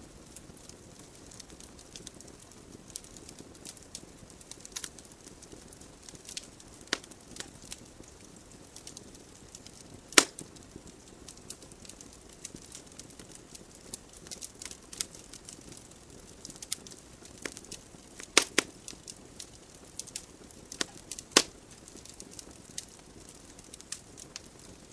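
Wood fire burning in a fireplace: burning logs crackling with irregular sharp pops over a soft hiss of flames, the loudest pop about ten seconds in.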